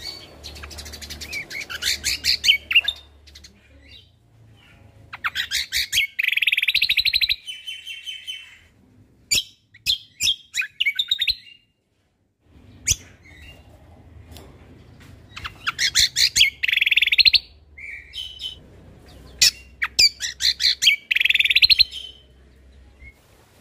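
Cucak kombo (kecial kombok) songbird singing in bursts of rapid, high chirping phrases, with a short pause about halfway through before the song resumes. A faint low hum runs under parts of the song.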